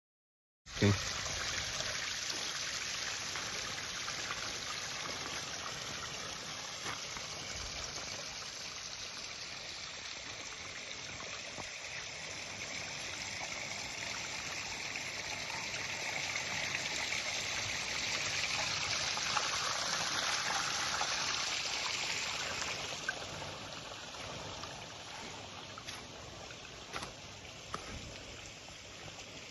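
Water from a small artificial garden waterfall running and trickling over stones in a steady splashing rush, growing quieter after about three quarters of the way through.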